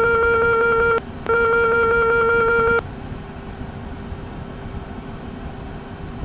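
A steady, buzzy electronic tone of one unchanging pitch sounds twice: about a second, a short break, then about a second and a half, over the steady hum of a jet cockpit on the ground.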